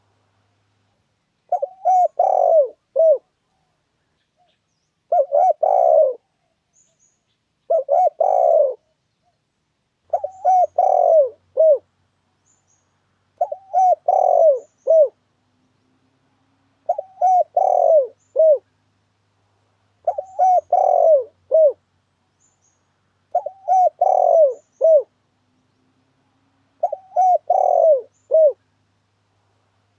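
Spotted dove (tekukur) cooing: a phrase of several coo notes, repeated nine times at an even pace of about one every three seconds. This is the call used as a lure to draw spotted doves in for trapping.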